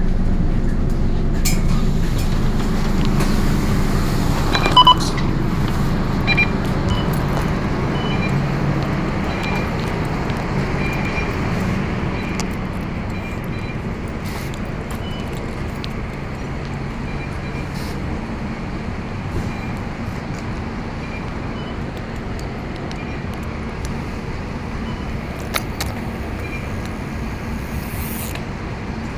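Scania K230UB city bus running on the road, a steady low engine hum under tyre and road noise that eases off over the first ten seconds. A short beep sounds about five seconds in.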